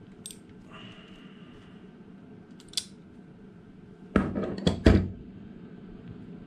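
Hand tools and metal parts handled while crimping wire disconnects: a few light clicks and a brief scrape, then three loud knocks with clatter about four to five seconds in.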